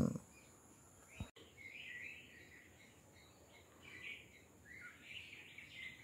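Small birds chirping faintly, with many short high calls following one another, some of them dipping in pitch. There is a brief low bump about a second in.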